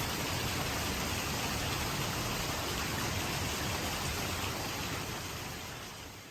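Steady rain from a tropical thunderstorm, an even hiss of falling water that fades out near the end.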